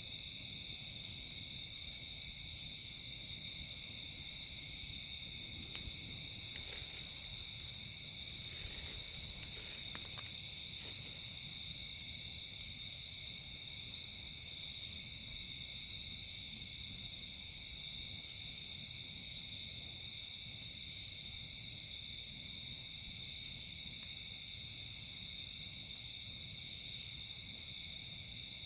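A steady, unbroken chorus of crickets and other insects, with a pulsing higher trill coming and going over it. A few faint crackles of a campfire sound between about six and eleven seconds in.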